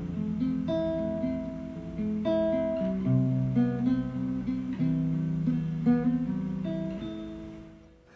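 Acoustic guitar playing an instrumental passage of strummed and picked chords, fading out near the end.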